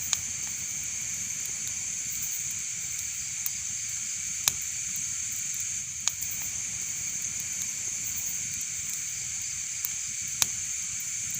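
Wood fire burning in a fireplace: a steady hiss with about half a dozen sharp crackles and pops scattered through it.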